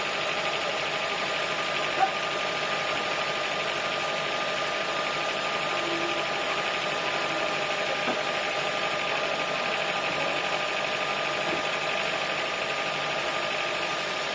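Sawmill engine running steadily, a constant drone with several fixed tones. A single sharp click about two seconds in.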